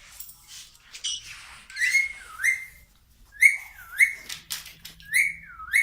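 Pet parrot whistling a series of about six short, high notes, each sliding up, dipping and rising again.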